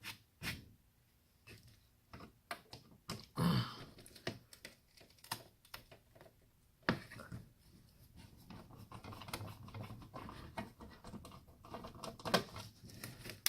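Irregular clicks, taps and rustling from small plastic and metal parts and a small hand tool being handled while taking apart a piece of scrap electronics, with a louder rustle about three and a half seconds in.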